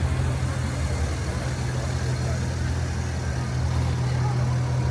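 A motor vehicle's engine idling nearby: a steady low hum that holds level throughout.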